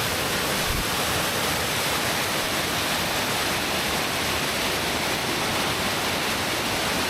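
Steady rushing noise of river rapids, even and unchanging.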